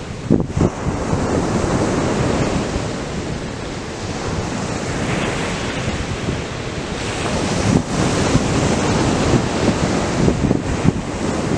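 Ocean surf breaking and washing up the beach in a continuous rushing wash that swells and eases, with wind gusting against the microphone in places.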